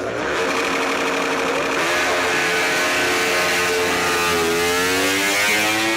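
MotoGP racing motorcycles' engines running at high revs, several bikes at once, their overlapping pitches gliding up and down as they pass.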